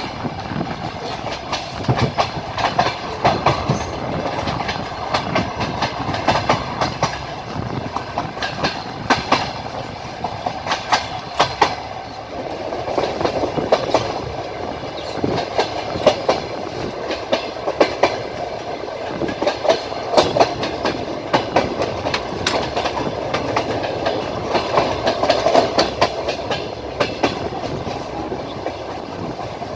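Train wheels clattering over rail joints, clusters of clicks coming every couple of seconds over the steady rumble of the moving railway carriage.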